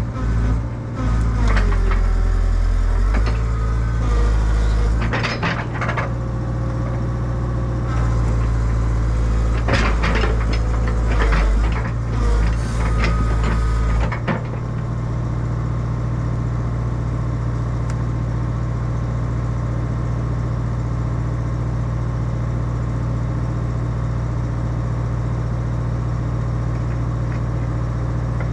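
An excavator's diesel engine runs under changing load, with sharp metal clanks and rattles in the first half as the machine is worked to get its thrown track back on. From about halfway through, the engine settles into a steady drone.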